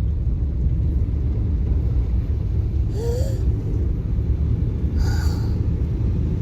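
Steady low rumble of a car driving through floodwater, heard from inside the cabin, with two brief hissing noises about three and five seconds in.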